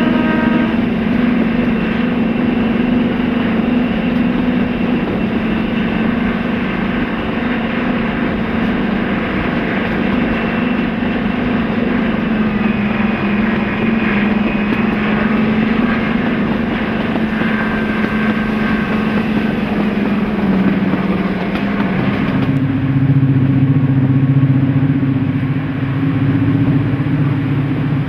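Class 55 Deltic locomotive's twin Napier Deltic two-stroke diesel engines running steadily, their note sinking slightly. About 22 seconds in the sound changes abruptly to a deeper, smoother note.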